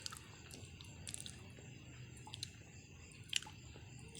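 Close-up chewing of crisp fried cassava, with faint scattered crunches and mouth clicks and one sharper click late on.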